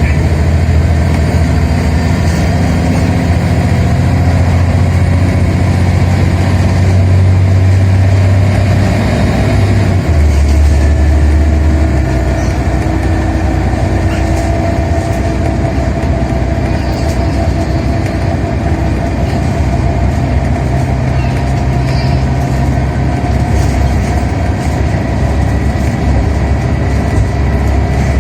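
Scania Omnicity bus's diesel engine running, heard from inside the bus. The deep engine note steps down about ten seconds in and again shortly after, then runs on steadily.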